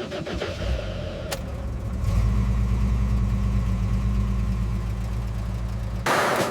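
Motor vehicle engine running and settling about two seconds in into a steady low idle. It cuts off abruptly near the end after a short noisy burst.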